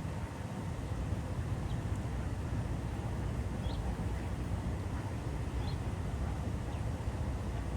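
Outdoor pond-side ambience: a steady low rumble of background noise with a few faint, short bird chirps.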